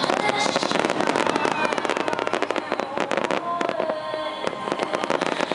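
Fireworks bursting in a dense run of sharp crackling pops, which thin out after about three and a half seconds.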